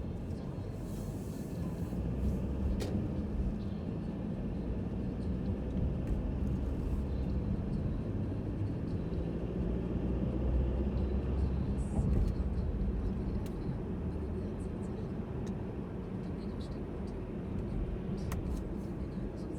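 Mercedes-Benz C300 (W205) being driven: a steady low engine and road rumble with a faint gliding engine note in the middle and a few light clicks.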